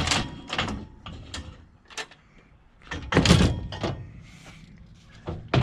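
Scrap items being handled and set into a pickup truck, giving a series of knocks, clanks and scrapes, with the loudest and heaviest thud about three seconds in.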